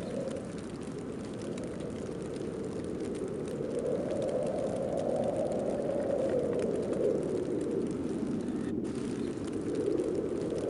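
Snowstorm wind blowing in gusts: a steady low rushing that slowly swells and eases.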